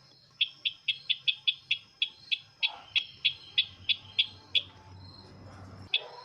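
A bird, the sisintar ladang, calling in a quick run of short, sharp, high notes, about four a second, that stops after about four seconds and gives one more note near the end.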